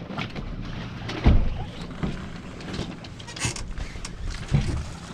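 Knocks and clatter aboard a sailboat rolling in a swell in near-dead wind, over a steady low rumble: two heavy thuds, about a second in and again near the end, with lighter clicks between.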